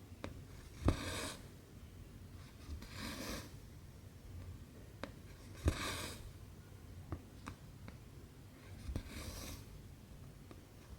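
Cotton embroidery thread being drawn through 11-count cross-stitch fabric: four short hissing pulls about every two to three seconds, the two loudest starting with a sharp click of the needle.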